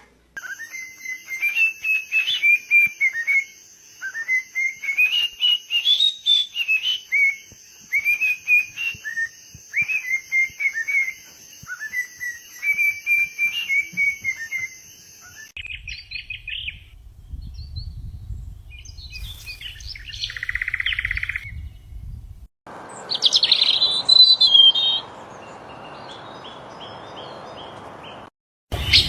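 Small birds chirping in short rising and falling calls for about fifteen seconds. Then come shorter bits with a low rumble and a few more chirps.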